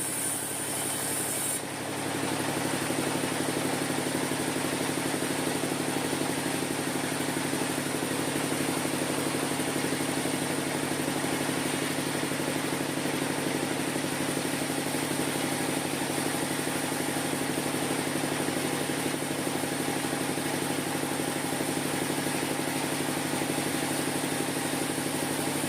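Sawmill machinery running steadily with an even, engine-like hum, with no change in pitch from a cut; a high hiss over it stops about a second and a half in.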